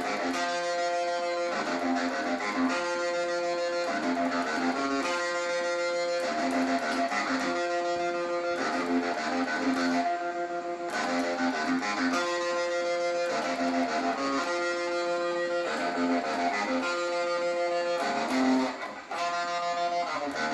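Electric guitar playing a repeated riff through a Behringer UT300 Ultra Tremolo pedal set to full depth and a medium-fast rate. The phrase comes round about every two seconds, with a brief gap near the end.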